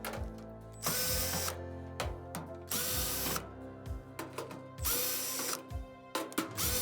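Cordless drill-driver running in four short bursts about two seconds apart, each with a brief motor whine: screws being backed out of the clothes dryer's cabinet so the drum can be lifted out.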